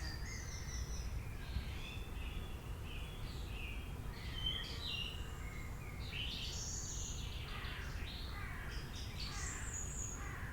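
Several birds chirping and whistling in short overlapping calls, over a steady low rumble of background ambience.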